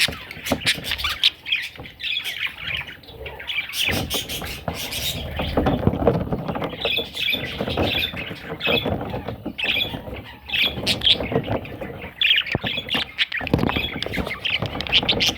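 Budgerigar chattering and squawking in a busy run of short chirps, clicks and harsh squawks.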